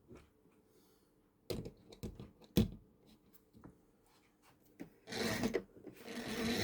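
Light clicks and knocks of model railway stock and track pieces being handled and set down, a few separate taps spread out, then a brief rubbing scrape near the end.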